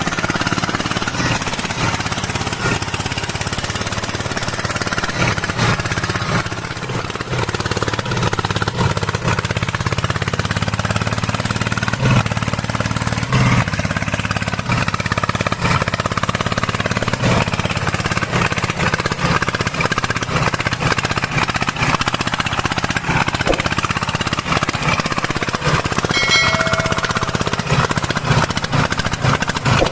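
Single-cylinder diesel engine of a Vietnamese công nông farm truck running steadily with a rapid chugging beat.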